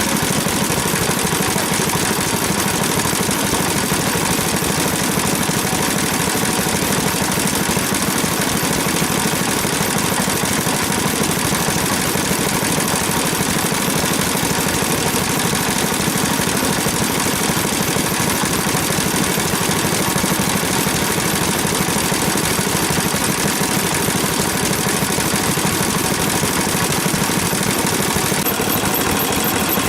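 Old Japanese stationary engines (hatsudoki) running steadily at idle, a dense, even sound of engine strokes with no let-up.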